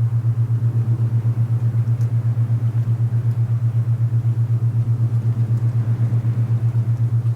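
Alpha binaural beat: a steady low hum pulsing evenly about nine times a second, over soft wind noise.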